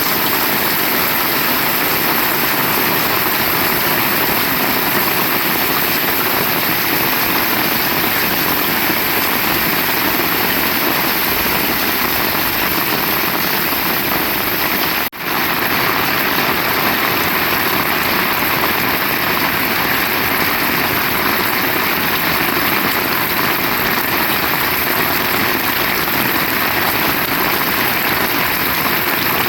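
Heavy rain pouring steadily, an even rushing hiss, with a momentary drop in level about halfway through.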